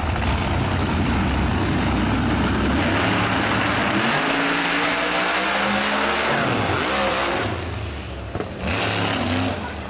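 Drag-racing car's engine at full throttle on a launch, its pitch climbing steadily for a few seconds as it pulls down the track. About three-quarters of the way through the note falls away as the throttle is lifted, then there is a shorter burst of engine noise.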